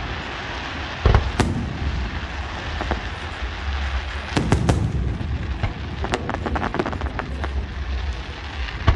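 Aerial fireworks going off: two heavy booms about a second in, more booms around four and a half seconds, then a rapid run of crackling pops, over a steady low rumble.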